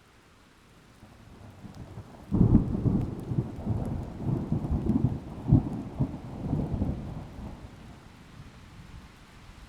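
A thunderclap with rain: a low rumble builds, breaks into a sudden loud crack about two seconds in, then rolls on in a series of deep rumbling peaks and dies away near the end.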